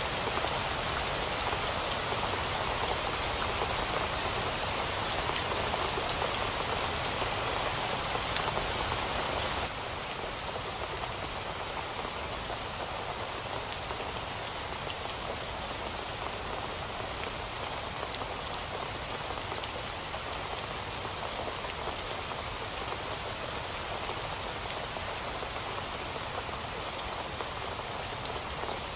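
Steady rain falling, a dense patter of drops hitting a surface. About ten seconds in it abruptly turns slightly quieter and thinner, then carries on evenly.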